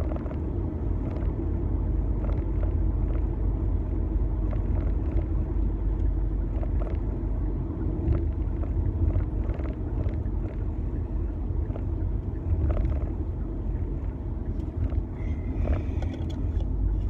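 Steady low road and engine rumble inside a moving car's cabin, with a few faint scattered clicks.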